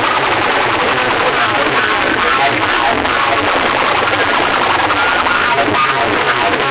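Loud music blasting from big DJ sound-box rigs in a street sound competition, two systems playing against each other at once.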